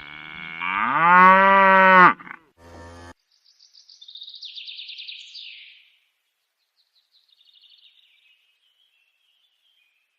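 A cow mooing once, a loud call of about two seconds that bends slightly up in pitch, then a short rough burst of noise, then a bird's rapid high chirping trills that thin out to faint chirps.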